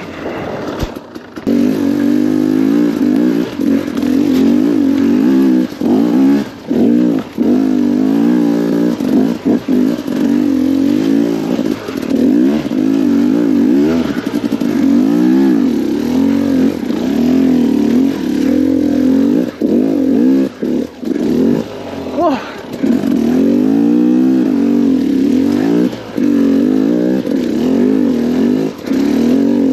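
KTM 250 XCW two-stroke enduro engine revving under load on off-trail hill climbs, the rider repeatedly rolling off and back on the throttle so the pitch rises and falls, with a brief drop about a second in.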